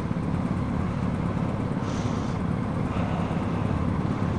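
BMW R1250GS motorcycle under way: a steady rumble of engine and wind noise.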